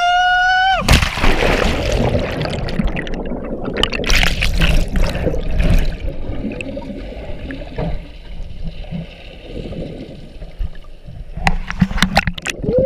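Water rushing and splashing around a rider sliding down a tube water slide, loud for the first several seconds and quieter after the middle, with a few sharp knocks near the end. A whooping cry from the rider ends about a second in.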